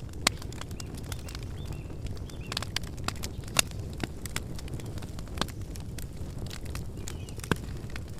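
Wood campfire burning with a low, steady rumble and frequent crackles and pops. The sharpest pops come just after the start, near the middle and near the end.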